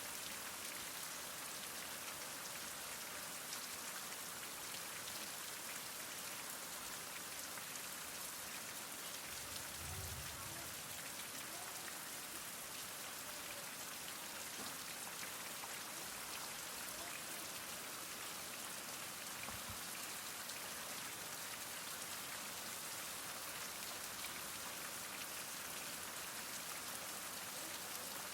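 Heavy rain falling in a steady, even hiss, with a brief low rumble about ten seconds in and a fainter one near twenty seconds.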